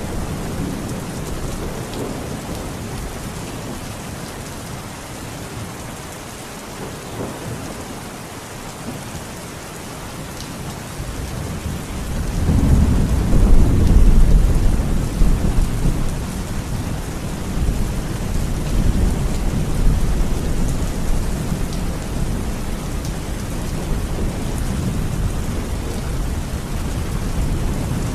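Steady heavy rain with a long roll of thunder that builds about twelve seconds in, is loudest a couple of seconds later and rumbles on under the rain for the rest of the time.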